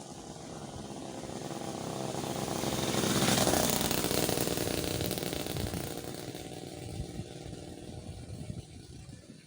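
A motor vehicle passing by: its engine grows louder, peaks about three seconds in, then fades away.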